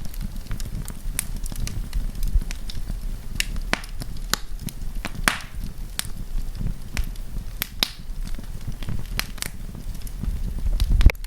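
Wood campfire crackling: irregular sharp pops and snaps over a steady low rumble of the burning fire, the rumble swelling briefly just before the end.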